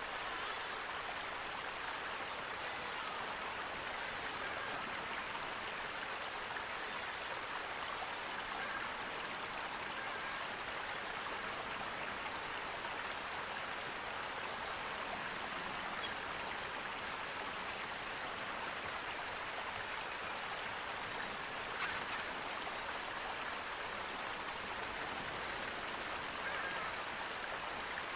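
Running water rushing steadily, the even sound of a stream or small waterfall, with a single brief click about three quarters of the way through.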